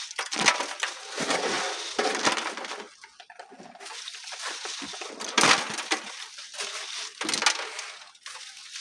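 Sand and gravel being dug and shifted by hand, with repeated scraping and crunching and a few sharper clatters of stones.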